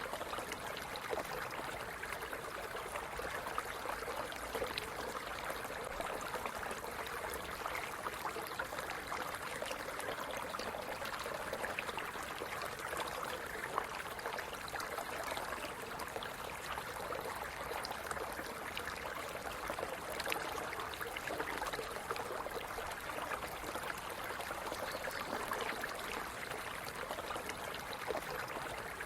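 Stream running over rocks: steady splashing and gurgling of moving water with many small trickles.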